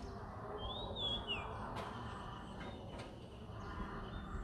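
A bird calls once about a second in: a short whistled note that rises and then falls, over a steady low background murmur.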